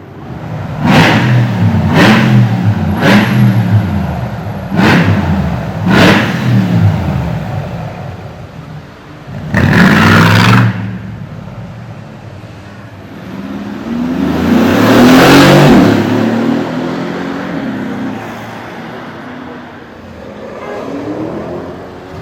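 Mercedes-AMG G-Wagon engine revved hard about five times in quick succession, each rev rising and dropping sharply. About ten seconds in comes one short loud blip, then a longer acceleration that rises and fades away as the car pulls off.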